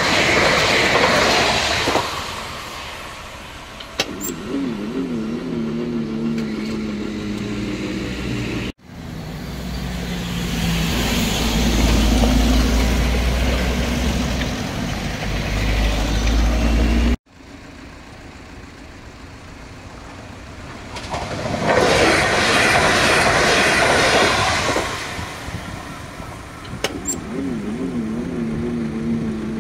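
A TER regional multiple unit passes over a level crossing and fades away. Then two Irisbus Citelis 12 natural-gas city buses cross the tracks with their engines running low. Finally a broad noise swells and fades for a few seconds.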